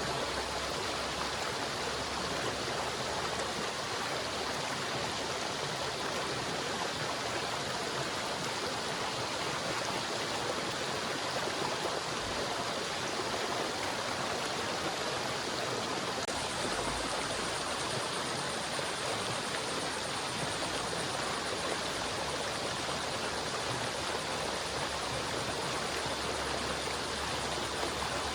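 River water flowing and rushing steadily over rocks, an even continuous rush.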